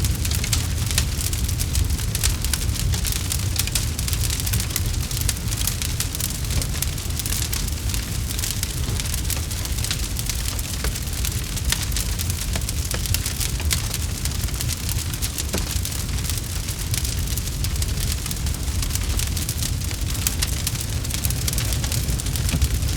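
Campfire crackling steadily: many small pops and snaps over a low rumble and hiss.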